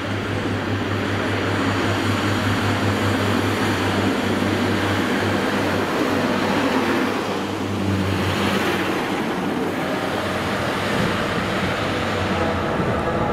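A train running close by: a steady low engine drone over heavy rumbling noise, the drone fading about eight and a half seconds in while the rumble carries on.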